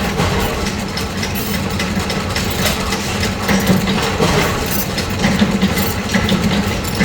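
Workshop machinery running steadily with a low hum, overlaid by irregular metallic clicks and clatter.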